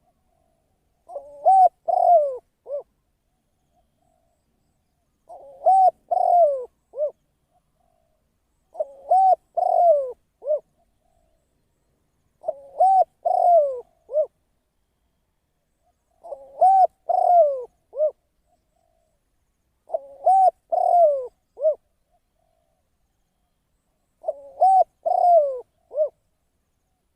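Spotted dove (a Thai decoy bird) cooing. It repeats the same three- to four-note phrase seven times, about every four seconds.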